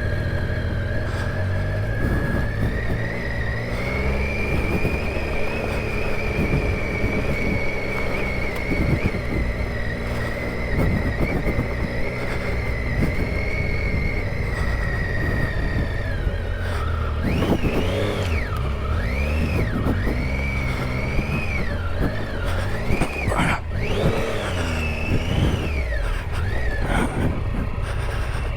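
Triumph Tiger 800 XCa's three-cylinder engine running at a steady throttle while ridden off road, then from about two-thirds of the way through revving up and down in quick rises and falls. A constant low rumble of wind and ground noise runs underneath.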